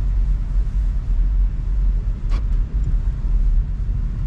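Low, steady rumble of a car heard from inside the cabin as it drives, with one short click a little past halfway.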